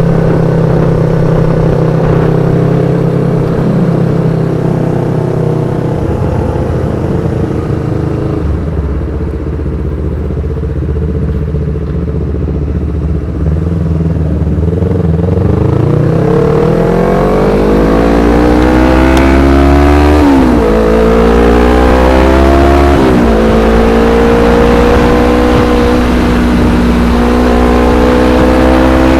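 Yamaha R25's 250 cc parallel-twin engine through an aftermarket Black Devils exhaust. It idles steadily for about fifteen seconds, then revs up in a long rising sweep and holds high revs. It drops back sharply twice, picking straight up again each time, and then runs steady at high revs.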